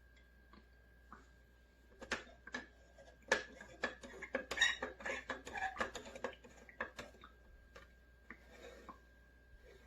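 Hard objects being handled: a run of knocks, clicks and light clinks, busiest from about two to seven seconds in, over a faint steady high tone.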